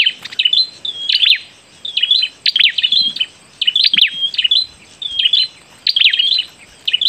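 A bird singing a short, high phrase of whistled notes and quick downward sweeps, repeated about once a second.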